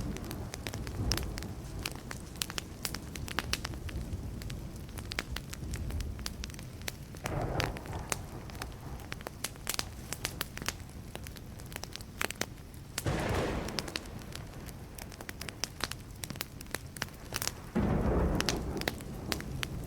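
Wood fire crackling, with a steady stream of sharp pops and snaps over a low rushing bed. Three short, deeper swells of rushing sound come and go about 7, 13 and 18 seconds in.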